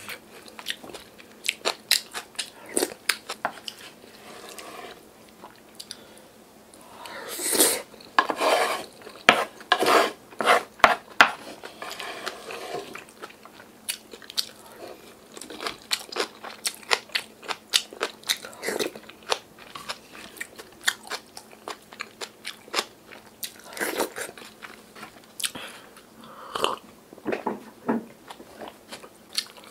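Close-up chewing and crunching of mouthfuls of yeolmu (young summer radish) kimchi bibimbap, a dense run of wet clicks and crunches with a spoon now and then against the bowl. It is busiest and loudest for a few seconds about a quarter of the way through.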